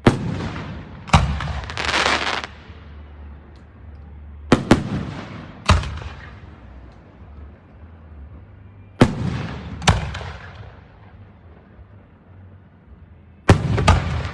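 Aerial fireworks shells bursting: about nine sharp booms in clusters every few seconds, each trailing off in a rolling echo. About two seconds in, a burst of crackling hiss follows one of the booms.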